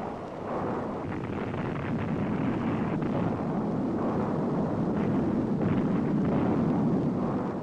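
Sustained rumbling roar of dynamite blasting in a rock canyon. It swells over the first couple of seconds, holds, and eases off near the end.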